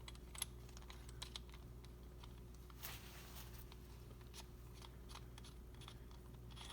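Faint, scattered small metal clicks and light handling noise of connecting rod cap bolts being taken off the rod cap, with a short scraping rustle about three seconds in.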